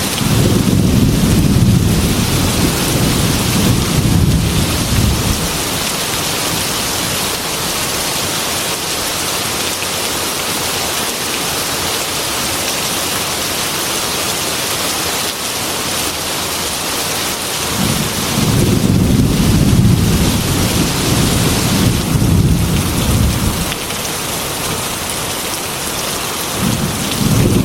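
Heavy rain falling steadily on a glass window, with long low rumbles of thunder at the start, again about 18 seconds in, and once more near the end.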